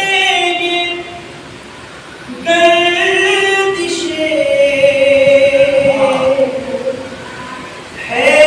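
Unaccompanied chanted recitation of mourning verse (peshkhwani) in long, sustained phrases. Each note is held and wavers, rising into a new phrase twice with one long held note in the middle.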